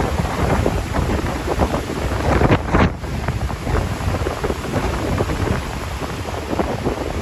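Strong wind blowing across the microphone, gusting unevenly.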